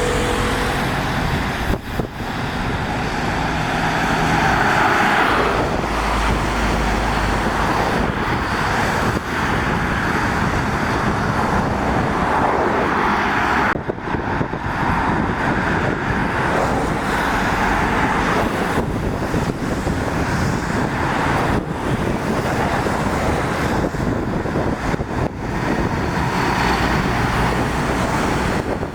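Heavy lorries and other traffic passing on a rain-wet road: engine noise mixed with a steady hiss of tyres on the wet surface, with a deep engine rumble swelling about five seconds in.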